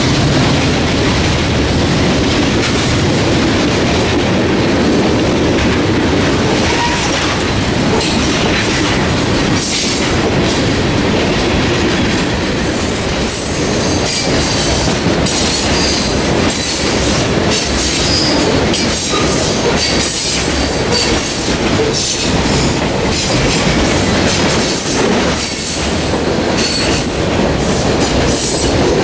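Norfolk Southern freight train's cars rolling past close by: a loud, steady rumble of steel wheels on rail, with wheels clacking over rail joints, the clacks more frequent in the second half.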